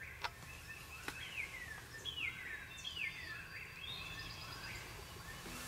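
Songbirds singing: clear whistled notes that slide downward, repeated about once a second, over a steady low background rumble, with a couple of faint clicks.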